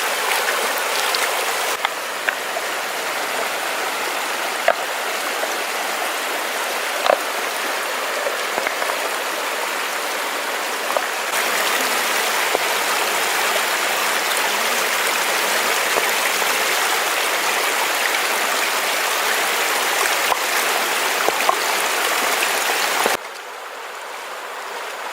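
Steady rush of flowing water with a few faint knocks, dropping suddenly in level near the end.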